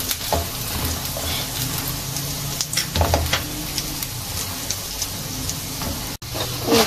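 Oil sizzling steadily under a corn-flour paratha frying in a nonstick pan, with a spatula scraping and pressing against the pan a few times.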